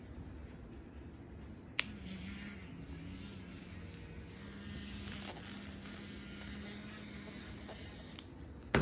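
Electric toothbrush switched on with a click about two seconds in, buzzing steadily with a low hum and a hiss, then cutting off shortly before the end, followed by a sharp knock.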